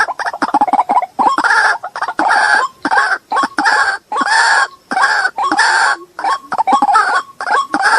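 Recorded white-breasted waterhen (ruak-ruak) call of the kind played as a lure: a quick run of short notes in the first second, then a steady series of longer harsh notes about two-thirds of a second apart.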